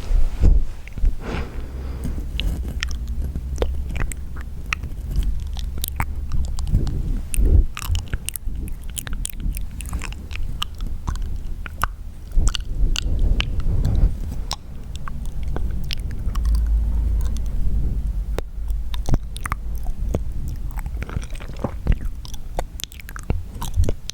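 Wet mouth sounds: a dense, irregular run of short wet clicks and smacks over a low rumble.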